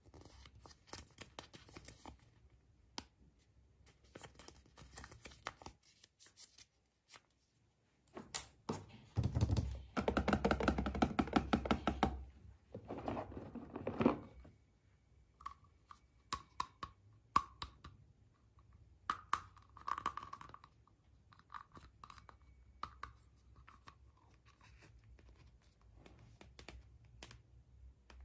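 Hands unwrapping packaging: tearing and crinkling with scattered taps and knocks, busiest and loudest for about five seconds starting around nine seconds in.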